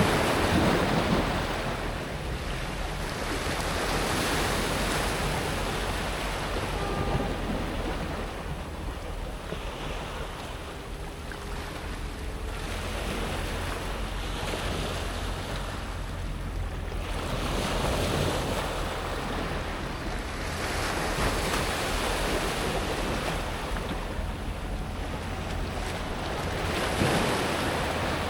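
Small waves breaking on a pebble beach and washing back over the stones, swelling in a fresh surge every three to five seconds.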